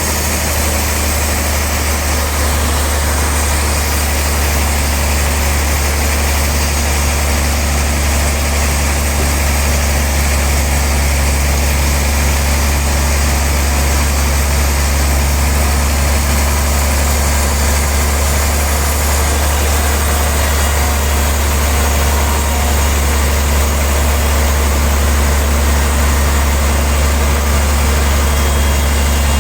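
Sawmill machinery running steadily while sawing a large log into boards: a constant deep hum under an even wash of noise, with no change in pace.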